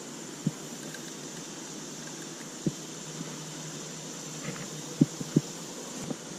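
Steady hiss of wind on the microphone, broken by short low thumps: one about half a second in, another just before the middle, and three in quick succession near the end.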